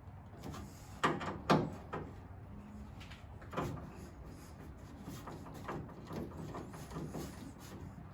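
Irregular knocks and clunks from hands-on work on a car, two sharp loud ones close together about a second in, another a couple of seconds later, then lighter taps and rustles.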